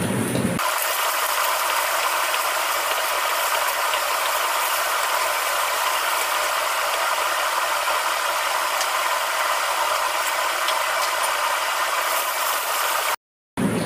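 Diced eggplant frying in olive oil in a wok: a steady sizzle, with faint scattered ticks from a spatula stirring it as it browns. The sound cuts out briefly just before the end.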